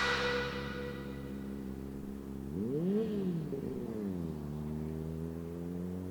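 Yamaha R6 inline-four engine idling, given one quick rev about two and a half seconds in that rises and falls back to a steady idle. The tail of electronic music fades out in the first second.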